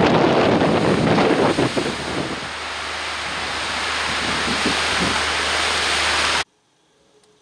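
Storm-force wind blasting across the microphone with a rushing roar of wind and surf. About two seconds in, the low buffeting eases into a steady hiss that slowly builds, then cuts off suddenly near the end.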